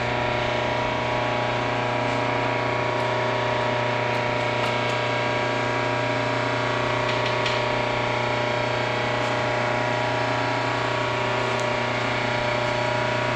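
Clausing lathe's electric drive running with a steady, unchanging electrical hum made of many even tones.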